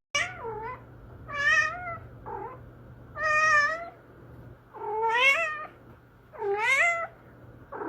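A cat meowing over and over: six or seven meows about a second and a half apart, each bending up and down in pitch.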